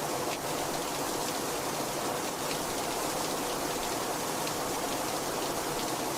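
Heavy rain falling steadily, a constant rushing with faint individual drop ticks.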